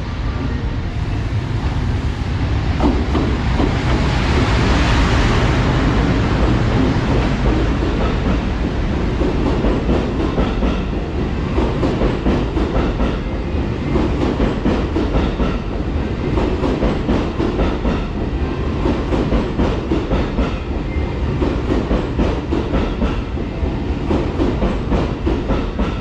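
A train passes: a locomotive hauling new H100 diesel railcars in tow. A rushing noise swells and peaks about five seconds in as the head of the train goes by, then the railcars' wheels click steadily over the rail joints as the cars roll past.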